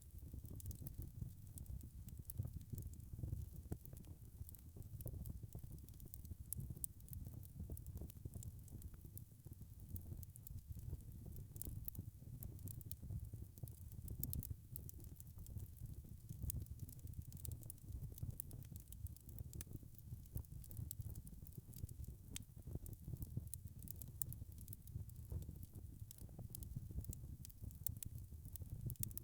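Wood fire in a fireplace crackling steadily: many small irregular pops and snaps over a low rumble of the burning logs.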